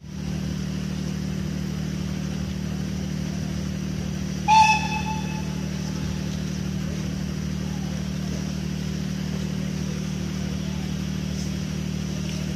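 The steady low hum of a diesel multiple unit's engine idling at the platform. A few seconds in, one short whistle blast, fading within about half a second, from the approaching steam locomotive.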